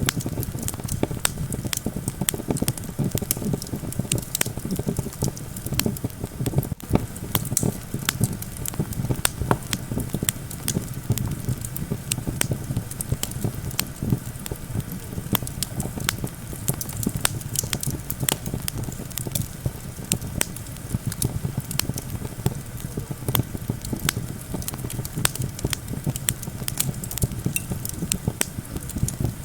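Wood fire crackling and popping with many sharp irregular snaps, over a steady low rumble of wind.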